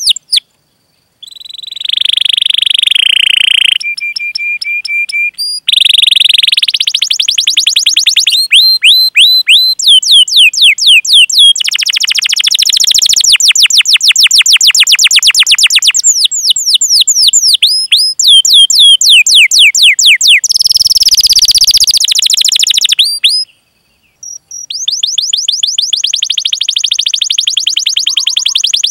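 Domestic canary singing a fast, loud song of rapid trills and rolls: long runs of repeated chirping 'cuit cuit' notes, breaking off briefly twice.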